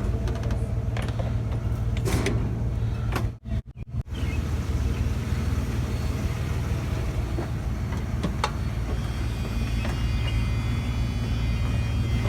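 Steady low rumble of a motor vehicle running, with a brief drop-out about three and a half seconds in and a few faint clicks.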